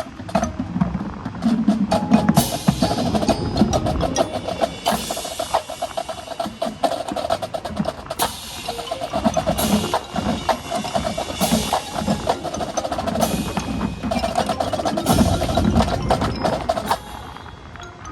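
Marching percussion playing a rapid, busy pattern of drum and click strokes over a pitched ringing line, with low wind rumble on the microphone. The playing stops about seventeen seconds in.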